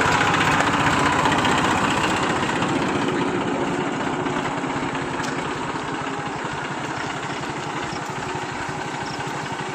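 Eicher 380 tractor's diesel engine running steadily with a fast, even firing beat, gradually getting quieter.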